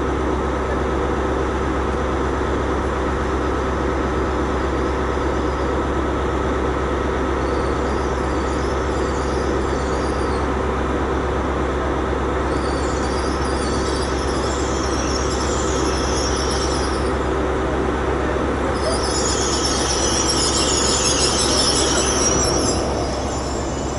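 Hitachi Intercity Express Train (GWR Class 800/802) running slowly through the station with a steady hum. High-pitched wavering wheel squeal comes and goes over it, loudest about twenty seconds in, then stops.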